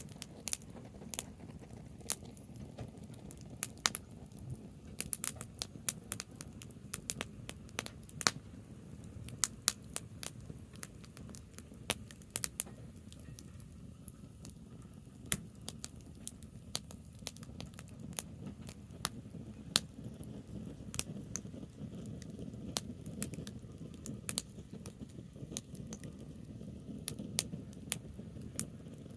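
Campfire of burning branches crackling, with many irregular sharp pops and snaps over a steady low rumble.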